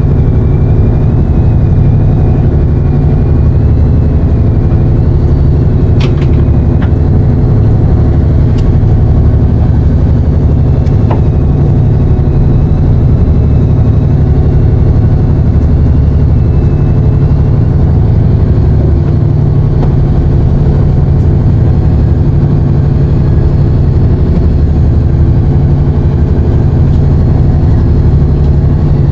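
Fishing boat's engine running at a steady low drone, with a few sharp clicks about six to eleven seconds in.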